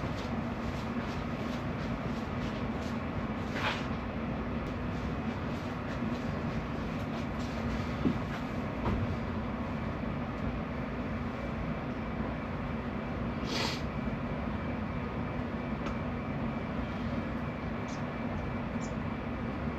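Water running steadily from a tap or hose, rinsing sand out of a float valve's top part, with a few brief clunks of the valve being handled.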